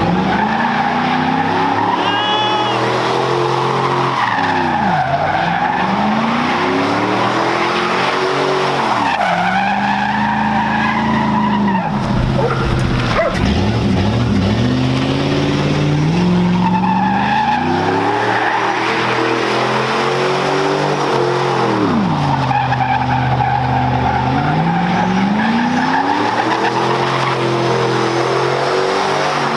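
Car engine revving up and falling back again and again, with tyres squealing, as a car drifts or spins donuts.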